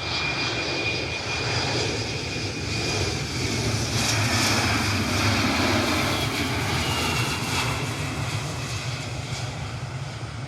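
Twin-engine jet airliner's turbofans running, a roar with a high whine that swells to a peak mid-way and then slowly fades as the plane passes.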